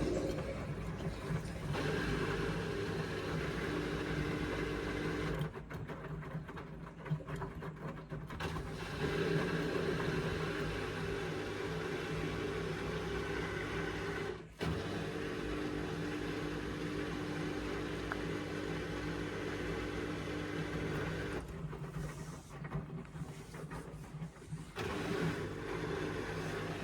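Indesit washing machine's drum motor running steadily as it turns the loaded drum, pausing and restarting several times.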